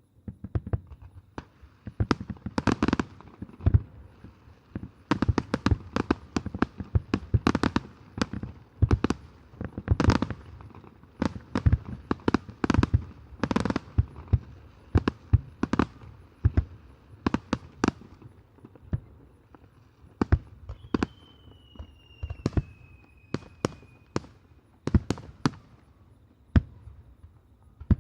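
Aerial fireworks bursting in quick succession: many sharp bangs and reports, densest in the first two-thirds, with a thin high whistle falling slightly in pitch for a few seconds later on.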